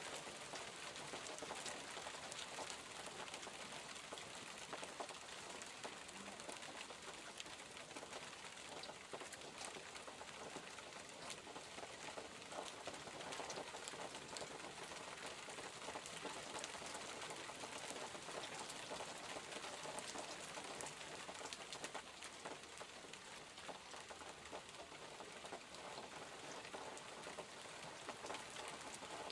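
Steady rain falling and pattering on surfaces, a continuous even hiss dotted with small drop ticks.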